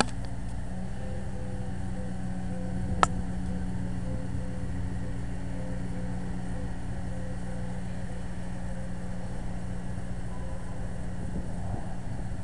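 A car engine idling with a steady low hum. One sharp click sounds about three seconds in.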